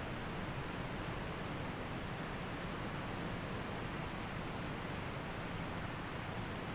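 Waterfall and mountain creek rushing steadily: an even, unbroken roar of falling water.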